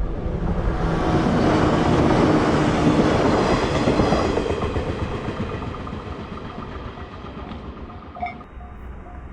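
A train passing over a level crossing: a loud rush of wheels on rail that builds within the first second, is loudest for the next few seconds, then fades. The crossing's warning bell clangs steadily underneath, heard more plainly as the train noise dies away.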